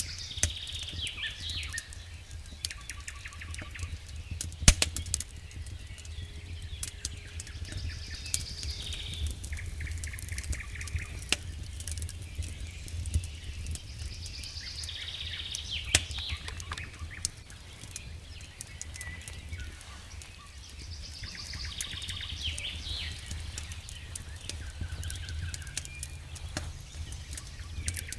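Campfire crackling with scattered sharp pops, the loudest about five seconds in and again near sixteen seconds, over a steady low rumble. A songbird repeats the same short song phrase every several seconds.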